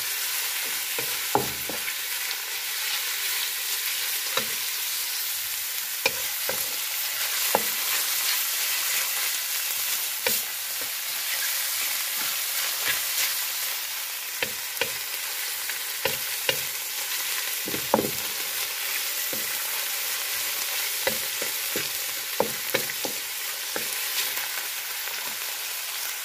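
Sliced shiitake mushrooms sizzling steadily in hot oil in a wok while being stir-fried. A wooden spatula knocks and scrapes against the pan at irregular moments.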